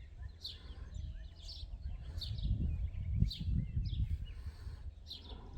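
Birds chirping outdoors: short high calls about once a second, over an uneven low rumble.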